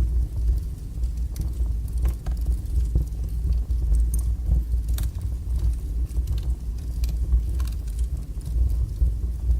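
Wood fire burning in a fireplace: a steady low roar of the flames with scattered sharp crackles and pops from the logs.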